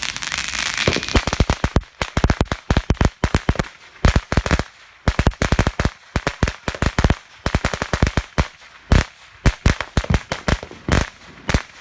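A string of firecrackers going off: dozens of sharp bangs in quick, irregular succession, starting about a second in and rattling on for about ten seconds.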